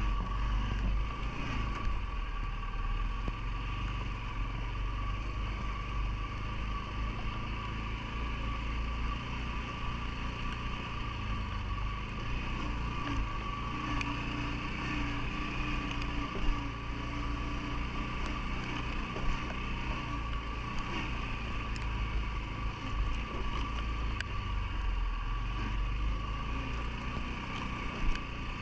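CFMoto ATV engine running steadily, with a deep rumble and a few brief knocks.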